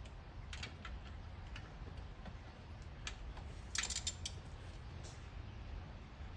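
Scattered light metallic clicks and taps from hand tools and bolts being handled during engine assembly. The loudest is a quick cluster of clicks about two-thirds of the way in, over a low steady hum.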